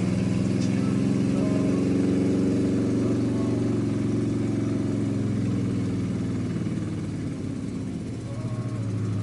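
A car engine running with a deep steady drone. Its pitch and level ease slowly down through the second half.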